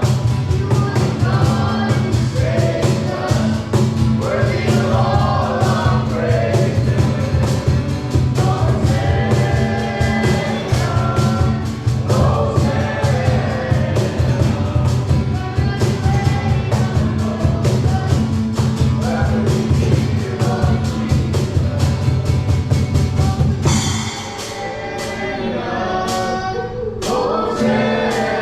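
Worship music: voices singing over a band with a steady beat and heavy bass. About three-quarters of the way through, the bass and beat drop away to a softer passage, and the singing comes back near the end.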